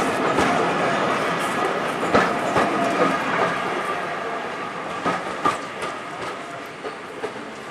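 Train carriages running past on jointed track, with irregular clicks of the wheels over the rail joints. The sound fades steadily as the train draws away.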